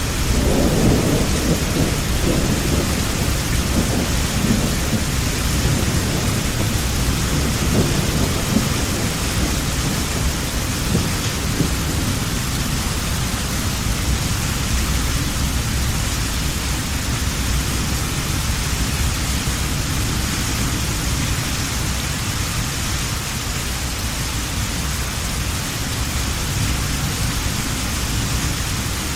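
Steady heavy rain, with a low rumble of thunder that swells about a second in and dies away over the next several seconds.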